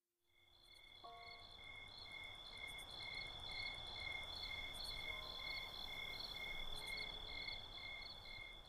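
Night ambience of chirping insects fading in from silence: a steady high trill, with a second chirp pulsing about twice a second over a low rumble.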